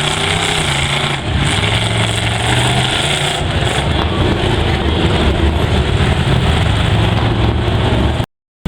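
Mega truck engine running loud under load, its pitch stepping a couple of times early on. Near the end the sound cuts out completely for a moment.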